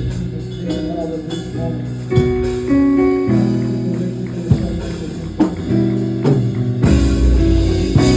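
A band playing instrumental music: held bass notes that change every second or so under guitar, with an occasional sharp drum hit.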